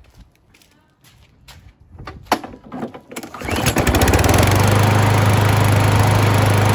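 Kohler XT675 single-cylinder lawnmower engine pull-started on its recoil, catching on the first pull about three seconds in and then running steadily. A few light clicks and knocks come before the pull.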